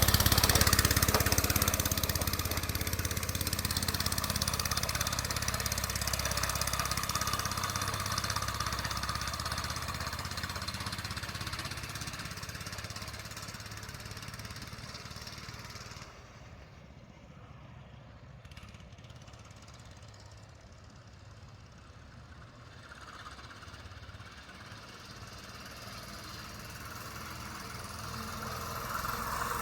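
Doodlebug minibike's small pull-start engine running as the bike is ridden, loudest at first, fading to faint about halfway through as it rides off, then growing louder again near the end as it comes back.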